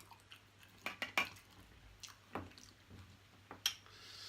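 Wet clicks and squelches of saucy seafood boil being handled and eaten by hand, with a handful of short, sharp snaps spread through.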